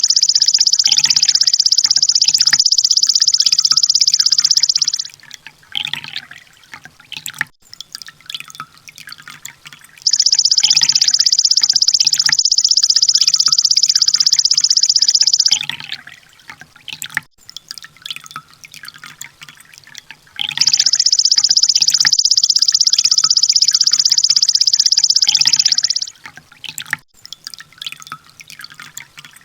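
Sunbird song used as bird-training audio: three loud, high, rapid trills of about five seconds each, starting about ten seconds apart, with softer ticking chirps between them.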